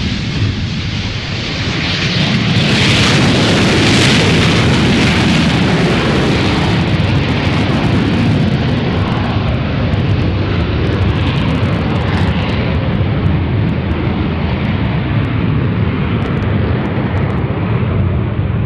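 Jet aircraft engine running at high power: a loud, dense roar that swells to its peak about three to four seconds in and then holds steady.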